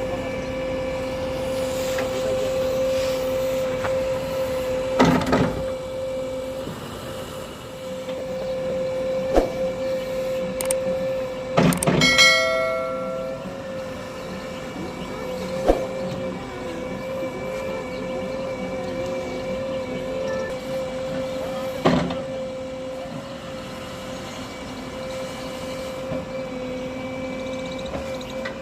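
JCB 3DX backhoe loader's diesel engine running steadily with a constant hum, broken by several clanks from the working machine. The loudest clank, about midway, rings on briefly like struck metal.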